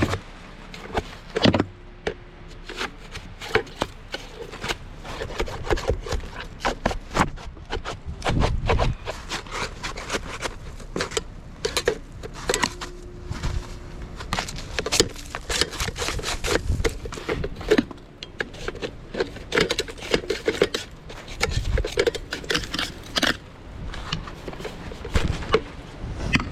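Packed slush and ice being scraped and knocked out of a jammed snowblower by hand, a long run of irregular sharp knocks and scrapes.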